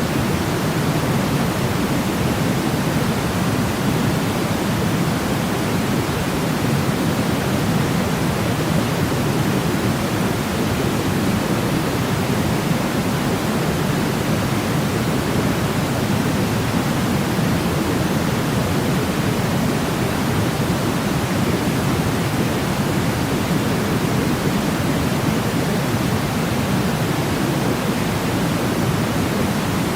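Steady synthetic noise, a pink-noise-like hiss weighted toward the low end, unchanging throughout.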